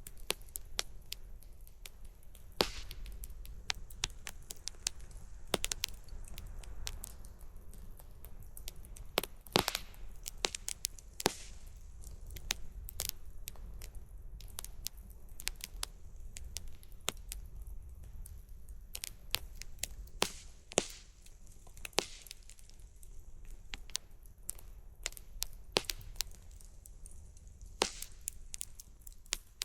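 Wood campfire crackling and popping, with irregular sharp snaps, some louder than others, over a low steady rumble.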